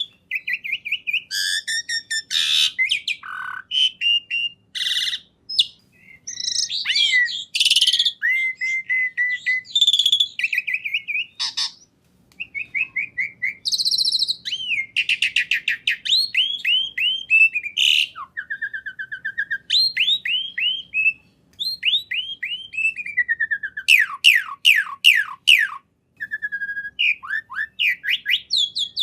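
A songbird singing a long, varied song of rapid whistles, downward-slurred notes, repeated chirps and fast trills, broken only by brief pauses.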